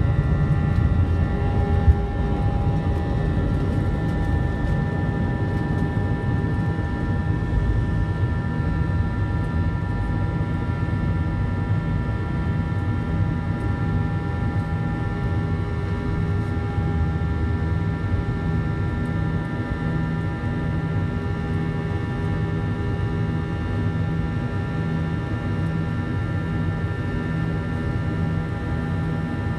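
Airbus A319 jet engines running at high thrust during takeoff, heard from inside the passenger cabin: a steady low roar with several steady whining tones above it. There is one brief knock about two seconds in.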